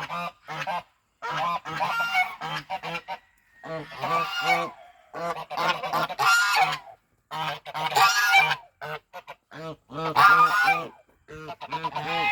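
Geese honking loudly and repeatedly, in runs of short calls with a few longer ones and brief pauses between.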